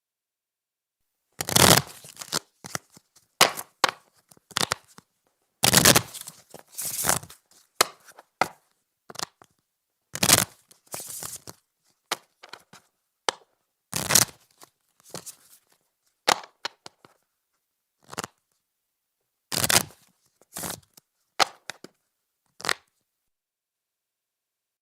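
A deck of playing cards shuffled and handled on a table: short riffles, flicks and taps of the cards in irregular bursts with pauses between, starting after about a second and a half of silence.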